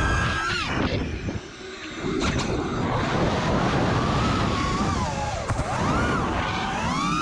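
Five-inch FPV quadcopter with RcInPower Smoox 2306.5 brushless motors, its motors and props whining in pitch that rises and falls with the throttle several times, over wind rush on the onboard microphone. The sound dips briefly about a second and a half in.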